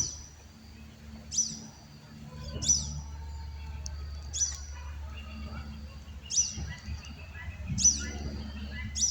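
A bird repeating a short, sharp, high-pitched chirp about every second and a half, with a steady low rumble underneath from about two seconds in.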